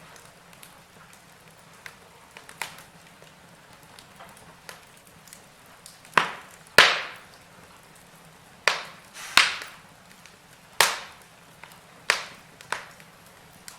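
Wood fire burning in a fireplace: a faint steady hiss with scattered small crackles, then about six loud, sharp pops in the second half.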